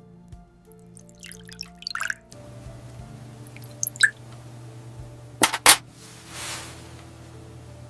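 A scatter of small, sharp clicks and light scrapes, the loudest a quick pair about five and a half seconds in, then a short hiss, over soft background music.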